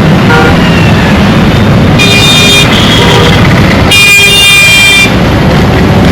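Dense road traffic rumbling steadily with engine noise, while vehicle horns honk: a brief toot near the start, then two high-pitched blasts about two and four seconds in, the second longer.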